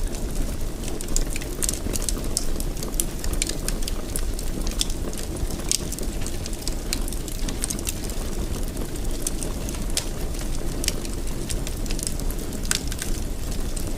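Wood fire burning in a fireplace: a steady low rumble of the flames with frequent small, irregular crackles and pops of burning wood.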